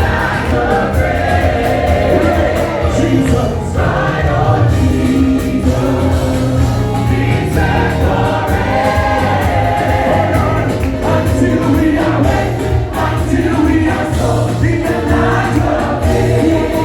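A choir singing a gospel song with instrumental backing and a strong bass line.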